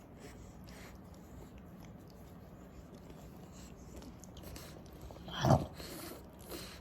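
French bulldog breathing faintly in its sleep, with one short, loud snore about five and a half seconds in.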